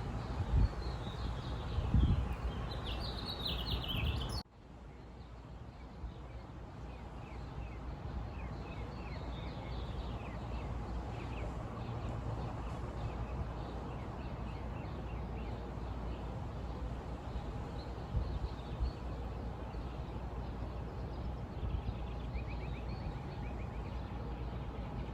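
Birds chirping over a steady low outdoor rumble. About four seconds in the sound cuts off abruptly, then fades back up over a few seconds, with the chirping going on.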